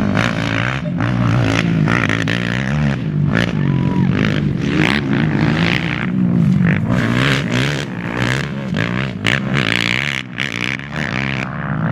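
Off-road racing engines revving up and down again and again, with rattling and scraping noise mixed in.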